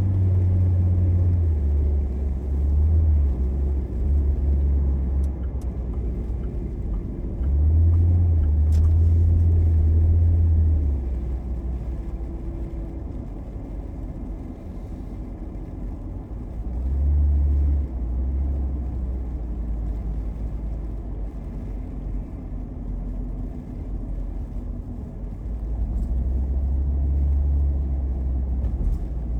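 Low road rumble of a moving car, heard from inside the cabin, swelling louder and easing off several times.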